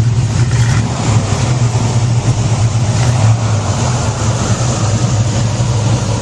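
Muscle car engine running loudly and steadily, with a deep, even exhaust note.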